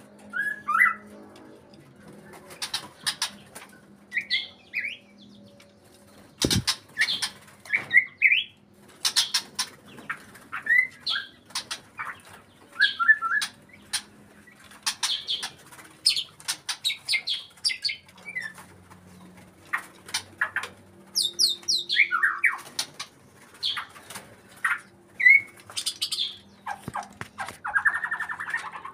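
White-rumped shama (murai batu) calling in short chirps and quick whistled notes, mixed with many sharp clicks, with a fast high run of notes about two-thirds of the way through. These are sounds taken as the sign of a shama in breeding condition.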